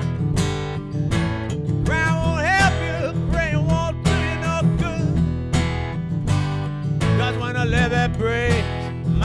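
Acoustic blues band playing: strummed acoustic guitar chords with a melody line that slides and bends in pitch over them.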